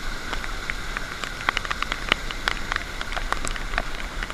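Steady rain falling, with many irregular sharp drop ticks close by over a steady hiss.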